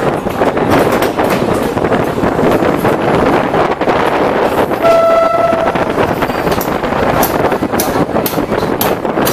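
Running noise of a DEMU commuter train, heard from an open window of the moving train, with a short steady train-horn blast about five seconds in.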